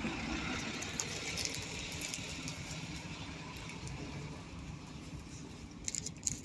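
Steady hum of road traffic, with a few faint clicks near the end.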